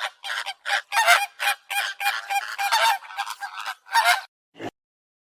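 Geese honking: a rapid run of short, nasal honks, several a second, stopping about four seconds in, followed by one brief falling sound and then silence.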